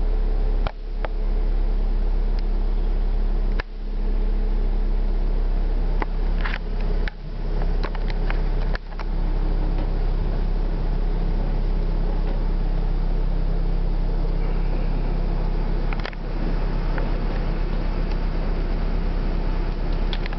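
A vehicle engine idling with a steady, even drone, heard from inside the car's cabin, broken by a few knocks.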